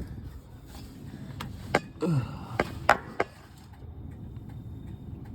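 A handful of sharp clicks and knocks from handling plastic air-line tubing and push-in fittings on a truck's sprayer air system, with a short falling squeak about two seconds in, over a faint steady hum.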